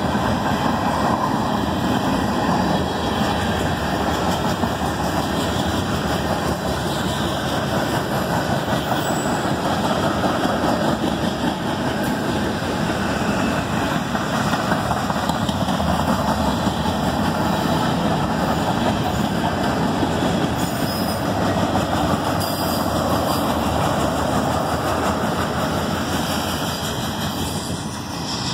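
Freight train cars rolling past on the rails, a steady noise of wheels on track. It eases near the end as the last cars move away.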